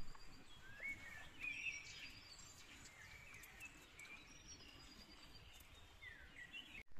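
Faint woodland birdsong: several birds chirping, with short rising and falling whistles, over a soft outdoor hiss.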